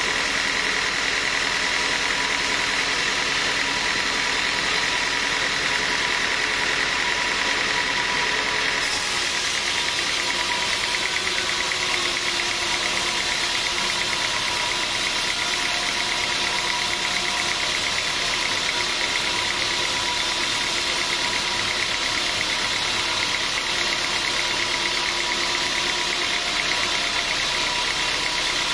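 Sawmill machinery running steadily, a continuous mechanical drone with a steady whine. About nine seconds in, the sound turns brighter and harsher with a fast, even rattle, and stays that way to the end.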